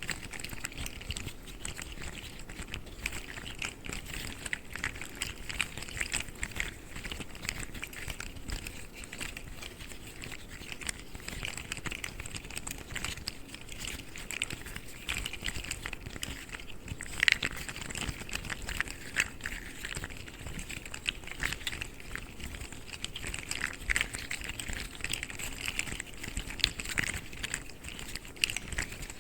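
Articulated plastic fidget slugs being handled, their jointed segments clicking and rattling in a dense, continuous patter, with one sharper click about two-thirds of the way through.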